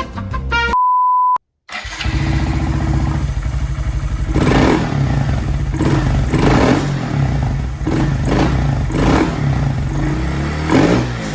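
A one-second steady beep after the music ends, then a Honda Monkey 125's single-cylinder engine running, breathing through a Chimera short-ram intake with a K&N filter and an aftermarket Takegawa exhaust. About five short, louder surges come through the running engine.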